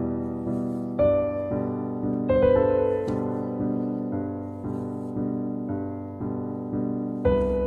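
Background piano music: a slow, gentle tune of notes struck about twice a second, each one fading away.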